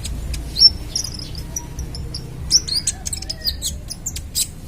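A young kolibri ninja sunbird singing a rapid, irregular string of short, sharp, high-pitched chirps and ticks, over a low steady hum.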